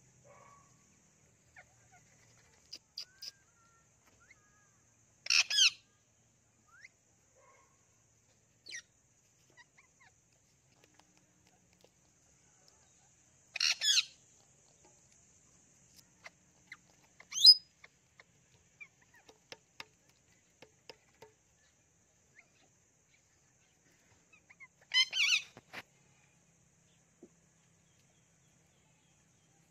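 Pet parrots giving short, loud squawks, four in all spread over the half-minute, with faint chirps and small clicks between them.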